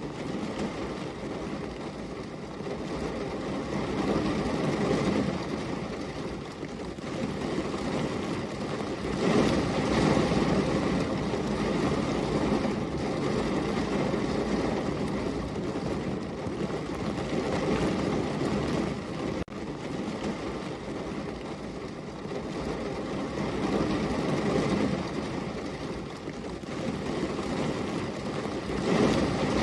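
Steady heavy rain, a dense even hiss that swells and eases every few seconds, with a momentary dropout about two-thirds of the way through.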